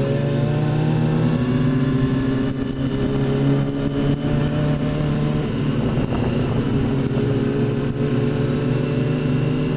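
Sport bike's inline-four engine running at steady riding revs under wind noise, its note shifting slightly a little past halfway.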